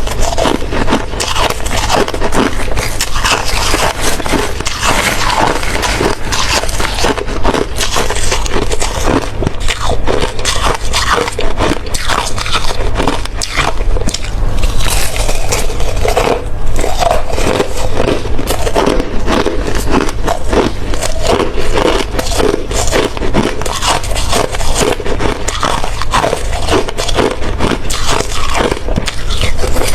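Close-miked biting and chewing of hard ice: dense, continuous crunching and cracking.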